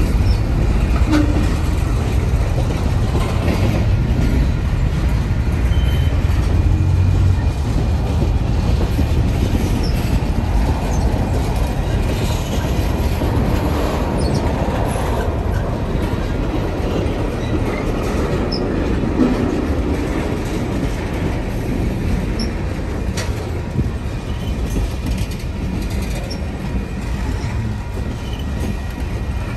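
Freight train of tank cars and covered hoppers rolling past at close range: a steady heavy rumble of steel wheels on rail with clattering over the rail joints and a few brief high squeaks.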